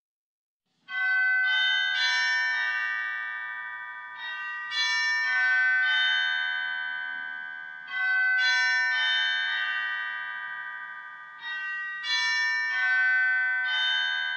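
Bell-like chimes playing a slow melody in four phrases of about four struck notes each, every note ringing on and fading between phrases, as a call to worship.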